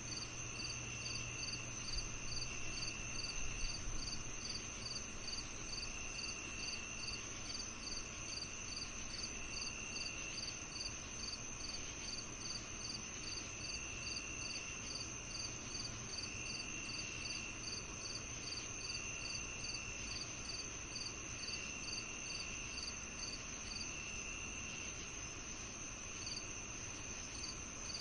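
Chorus of crickets on a summer evening: one steady high-pitched trill, another insect chirping evenly about three times a second, and a lower trill that starts and stops every couple of seconds. A faint low hum runs underneath.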